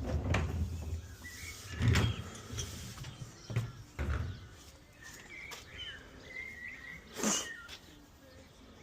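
A few dull knocks and thuds in the first four seconds and a short swish about seven seconds in, with birds chirping faintly behind.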